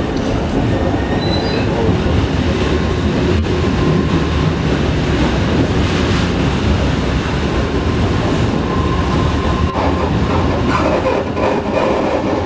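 Train running along the rails with a steady, loud rumble; a thin squeal of wheels on rail comes in during the second half.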